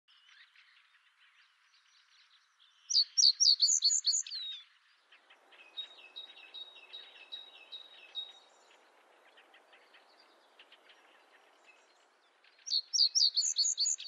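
Birdsong: one bird sings a loud, quick phrase of rapid high notes twice, about ten seconds apart, over fainter chirps and calls of other birds.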